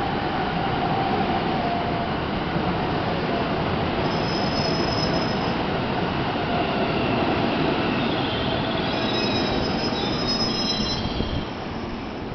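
JR West 207 series electric commuter train pulling into the platform and braking: steady rumble of wheels on rail with a whine that slowly falls in pitch. High brake squeals come about four seconds in and again from about eight to eleven seconds, and the noise drops as the train slows to a halt near the end.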